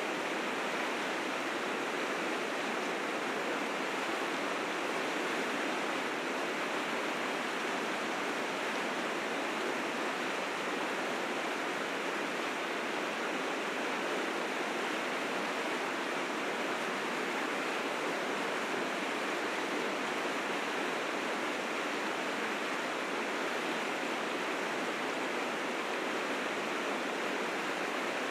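River rapids: fast water rushing and churning over rocks in a steady, even roar.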